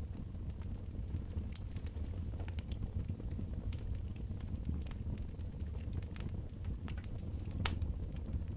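Wood fire crackling, with irregular small pops and one sharper pop near the end, over a steady low rumble.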